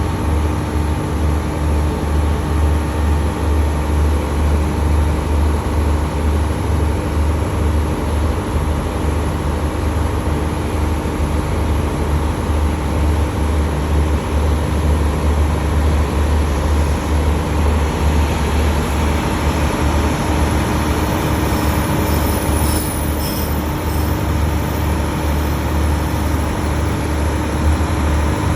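Diesel railcar engine running steadily, a deep even rumble with a steady hum above it.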